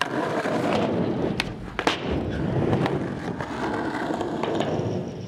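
Skateboard wheels rolling steadily over a skate park's surface, with a few sharp clacks of the board along the way.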